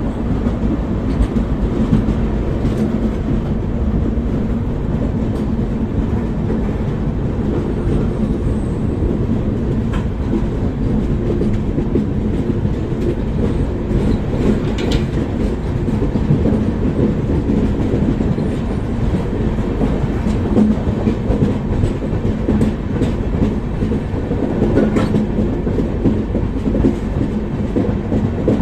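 Gitanjali Express passenger train running steadily along the track, its wheels clattering over the rails, with a continuous low rumble and occasional sharp clicks.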